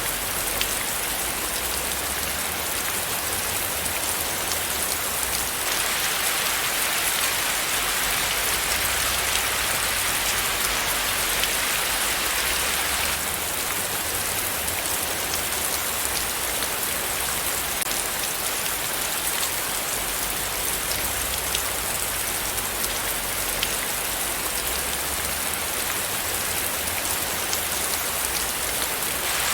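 Steady rain, with many drops pattering on a surface, a little brighter for a few seconds near the middle.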